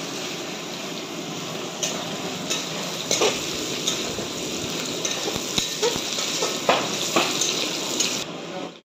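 Sliced onions frying in oil in a metal kadai, a steady sizzle, with a metal spatula scraping and clicking against the pan several times as they are stirred. The sound cuts off suddenly near the end.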